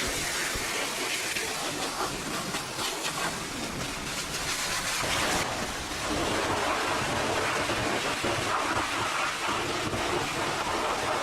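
High-pressure water spray hitting a truck, a steady hiss that changes character about five seconds in as the jet moves onto a different surface.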